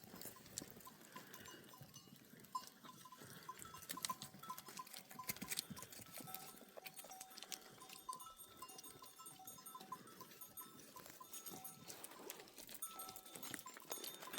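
Faint, intermittent clinking of bells worn by a grazing flock of goats and sheep, with scattered light clicks.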